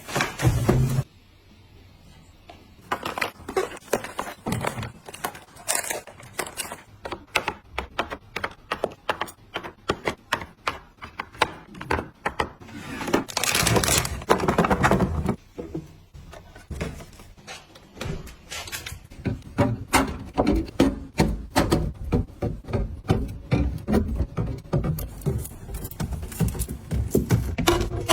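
Many small clicks, taps and knocks of household items being handled and set down one after another, with a longer rustling, scraping stretch about halfway through.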